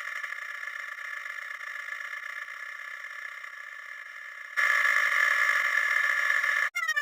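The 'wah wah' sad-trombone sound effect sped up so far that it blurs into a steady buzzing drone. About four and a half seconds in it jumps louder, and near the end it breaks into a quick run of short falling notes.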